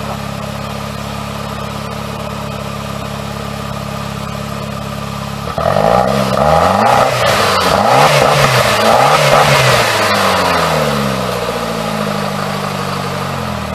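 Saab 9-3 car engine, newly fitted in a homemade tank chassis, idling steadily. About five and a half seconds in, it is revved up and down several times, then settles back to idle.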